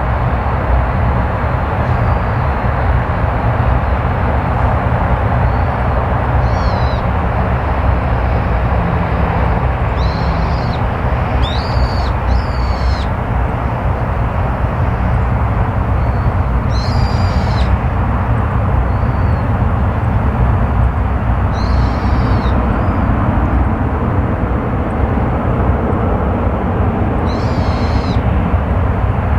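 Steady, loud jet-engine noise from a Boeing 767-300 airliner. A bird gives short falling calls over it about seven times.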